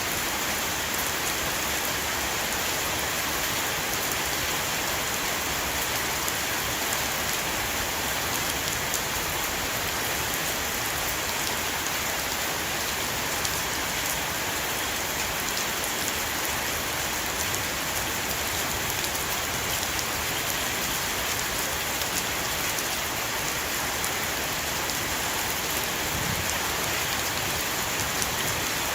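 Heavy rain falling on a roof, a steady dense patter of drops with fine crackling ticks throughout.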